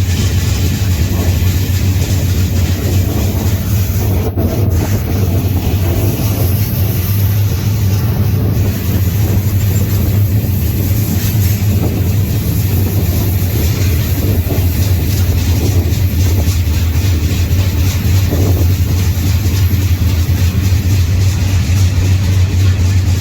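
Freight train rolling along the track, heard from aboard: a loud, steady low rumble with a rushing noise over it.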